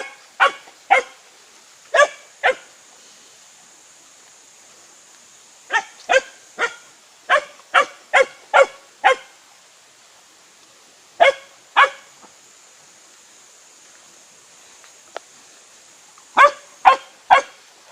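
An eleven-week-old puppy barking in short, sharp barks that come in bursts of two to seven with pauses of a few seconds between.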